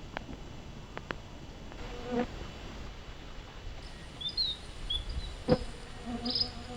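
A flying insect buzzing near the microphone: a short pass about two seconds in and a steadier buzz near the end. A few sharp clicks and some brief high chirps come in between.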